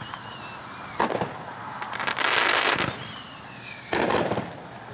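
A 16-shot 200-gram consumer fireworks cake (Red White and Blue Bombs) firing. Twice a whistle falls in pitch and ends in a sharp bang, with crackly bursts between them.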